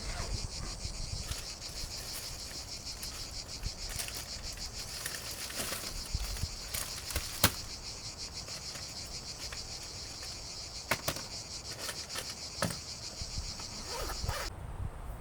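Insects trilling in a steady, high-pitched chorus that cuts off suddenly shortly before the end, with scattered light clicks and knocks from handling over it.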